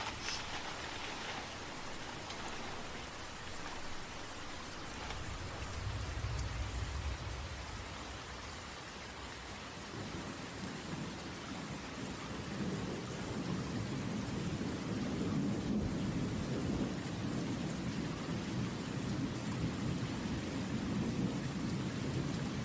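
Steady rain with thunder rumbling: a low roll about five seconds in, then a longer, louder rumble building from about halfway through.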